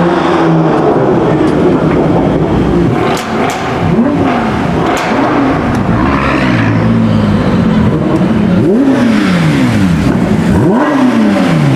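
Performance car engines revving hard, the pitch sweeping up and dropping back several times as cars accelerate away, with a few sharp pops.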